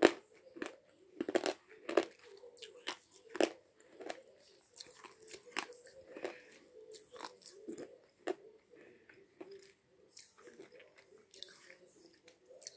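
A person biting and chewing a hard slate pencil: sharp crunches about one or two a second, loudest in the first few seconds, then softer, quicker chewing crunches.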